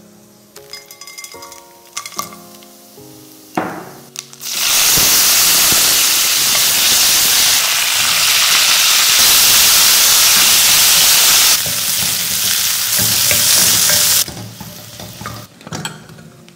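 Tempering for sambar sizzling hard in hot oil in a stainless steel kadai: shallot tempering mix, curry leaves and chopped shallots frying while a wooden spoon stirs. The sizzle starts sharply about four seconds in and cuts off about ten seconds later, with a few light clinks of spoon on pan.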